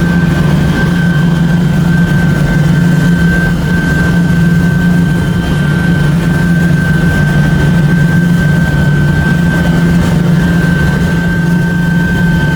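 Towing boat's engine running steadily at low speed, a constant low drone with a steady high whine over it.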